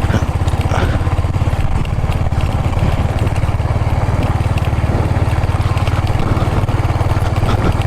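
Motorcycle engine running steadily while riding, with a fast, even pulsing beat and a rushing noise over it.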